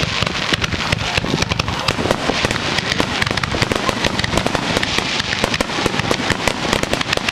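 Fireworks crackling and popping in a rapid, dense, unbroken run of sharp reports.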